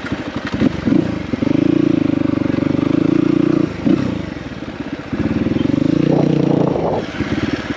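Dirt bike engine idling with a fast, even pulse, revved up and held twice for about two seconds each.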